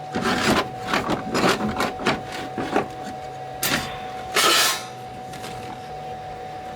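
A run of short scrapes and knocks from hand work on the belt grinder's metal parts, followed past the middle by two louder rasping scrapes, over a faint steady whine.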